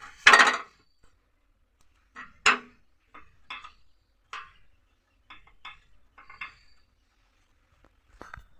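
Metal parts of an old LPG gas stove clinking and knocking as they are handled and taken out. A loud knock just after the start, then about ten short, separate clinks.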